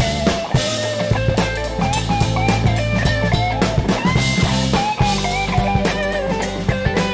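Funk-soul band playing an instrumental passage: a drum kit keeping a steady beat, a held bass line and a melodic lead line moving over them.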